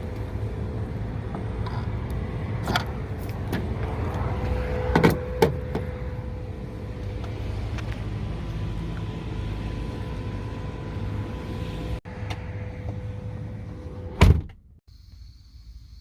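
A Tesla car door shutting with one loud thump near the end, after a few lighter knocks over a steady rumble and faint hum. After the thump it goes quiet apart from crickets chirping.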